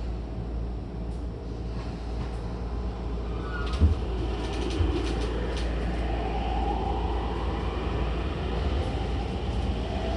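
Toei 10-300 early-series subway car's Mitsubishi IGBT VVVF inverter and traction motors, with a steady rumble under the car. From about the middle a whine rises steadily in pitch as the train accelerates. A couple of sharp knocks come a little before halfway.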